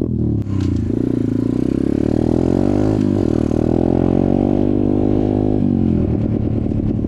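Dirt bike engine accelerating: its pitch climbs, shifts about three seconds in and climbs again, then drops back about five and a half seconds in.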